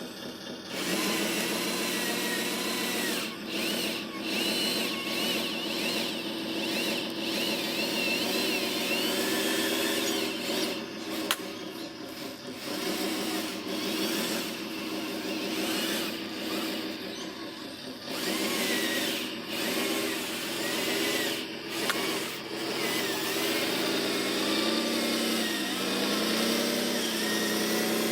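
Small electric motors and gearboxes of radio-controlled construction models whining as they work. The pitch rises and falls as the motors speed up and slow down, with a few short breaks.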